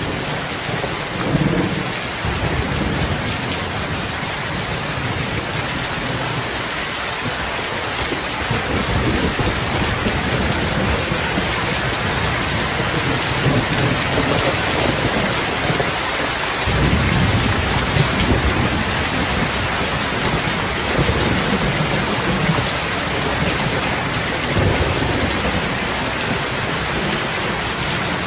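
Heavy rain falling in a steady hiss, with low rolling thunder that swells and fades several times.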